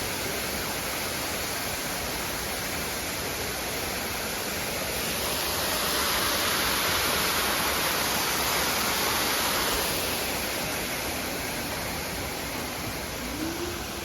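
Steady rush of water that swells for a few seconds about halfway through.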